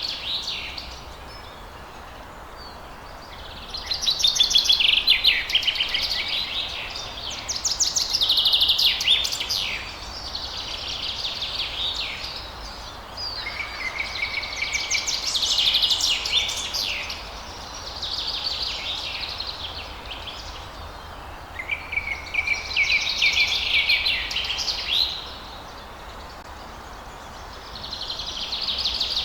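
Songbirds singing in a run of rapid, trilled phrases a few seconds long with short pauses between, over a faint steady background hiss.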